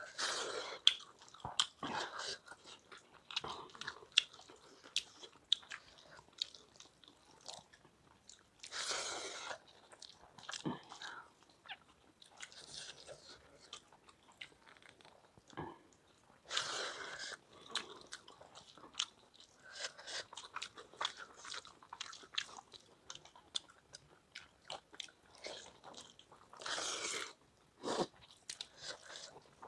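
Close mouth sounds of people eating rice and palak paneer by hand: chewing with many small clicks, fingers working the food on steel plates, and three louder short rushes of noise about 9, 17 and 27 seconds in.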